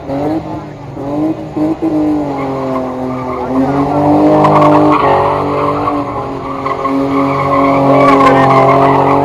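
BMW E30 at high revs with its tyres squealing in a sustained skid, as in drifting or a burnout; the engine and tyre note waver in pitch and grow louder about four seconds in.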